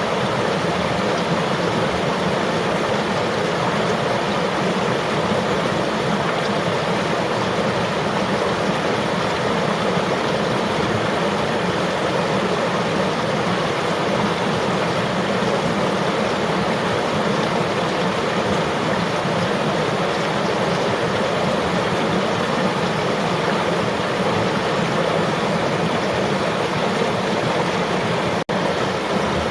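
Flowing river water rushing steadily, an even, unbroken wash of sound, with a split-second dropout near the end.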